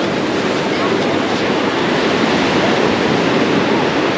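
Ocean surf washing onto the beach, a steady unbroken rush of breaking waves.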